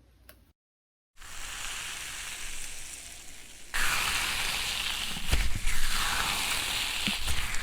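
Slime being pressed and worked by hand, making a dense crackling, fizzing sound that starts about a second in and gets louder about halfway through, with a few soft thumps.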